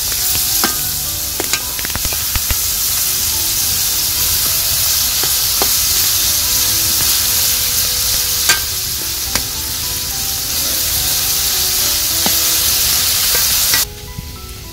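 Beef liver with onions and tomatoes sizzling in a hot metal pan as a metal ladle stirs it, the ladle clicking and scraping against the pan now and then. The sizzling cuts off suddenly near the end.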